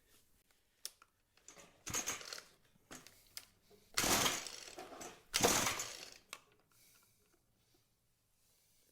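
Makita whipper snipper's pull-start cord yanked three times, each pull a short rasp about two seconds apart, with the engine not catching.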